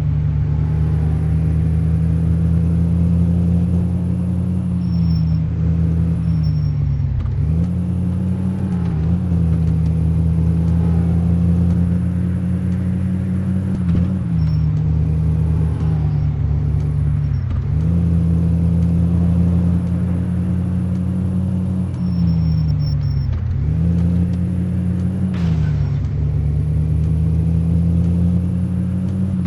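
Car engine running steadily while driving, its pitch dipping and climbing back several times.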